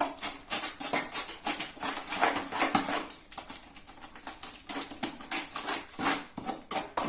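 Drywall joint compound being mixed by hand in a bucket: a quick, irregular run of scraping and clacking strokes, several a second, as the mixing tool stirs the thick paste against the bucket.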